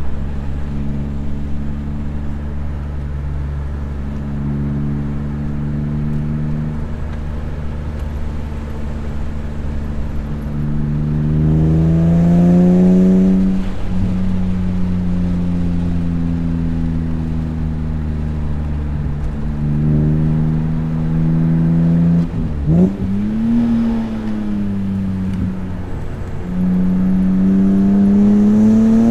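BMW S54 inline-six engine in an E36 M3 being driven hard on track. It pulls up in pitch about 12 seconds in and drops sharply at about 14 seconds as the driver lifts or shifts. It climbs again after 20 seconds, dips and jumps abruptly around 23 seconds, and pulls up once more near the end.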